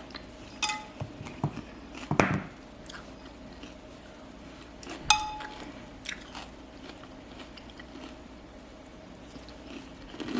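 A person chewing and eating at close range, with small clicks and mouth sounds. Twice, about a second in and again about five seconds in, a utensil clinks against a dish with a brief ring, and there is a louder knock about two seconds in.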